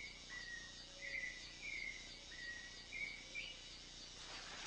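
Rainforest ambience: short, high chirping calls of insects or birds, repeating about once or twice a second, with a fainter, quicker chirping above them over a steady hiss.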